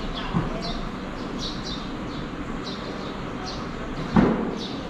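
Small birds chirping: short, high, falling chirps, one or two a second, over steady background noise. A single loud thump about four seconds in.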